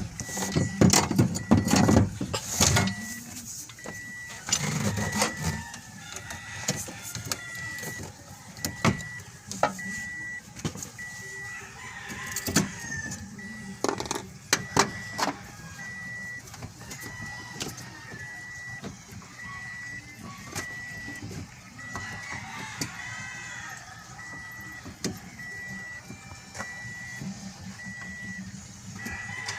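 A high electronic beep repeating steadily, a little more than once a second, over scattered sharp clicks and knocks of work on a car. A rooster crows faintly in the background.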